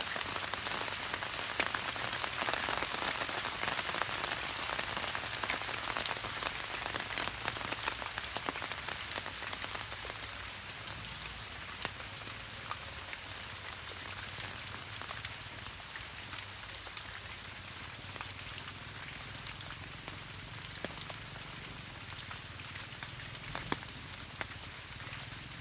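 Heavy rain falling steadily, with many individual drops striking close by; it eases slightly after the first several seconds.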